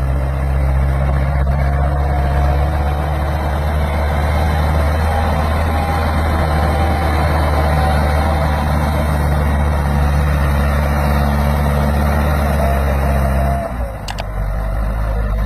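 Massey Ferguson 385 tractor's diesel engine running steadily at high revs, then dropping off about a second and a half before the end.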